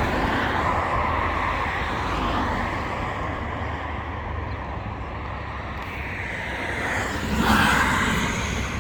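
Road traffic noise, a steady rumble, with a vehicle passing closer and louder near the end.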